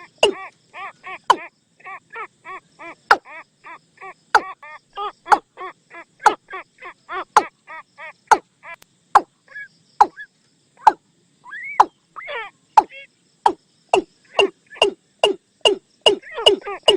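Watercock calling: a loud, sharp note about once a second, with quicker runs of stacked croaking notes between them, dense through the first half and sparser after.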